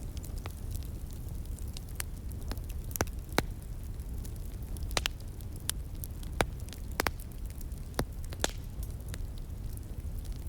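Wood fire crackling, with irregular sharp pops and snaps, a few louder ones around the middle, over a steady low rumble.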